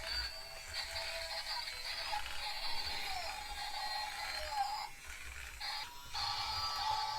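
Battery-operated Hulkbuster toy playing its built-in electronic music through a small, tinny speaker, with short breaks about five and six seconds in.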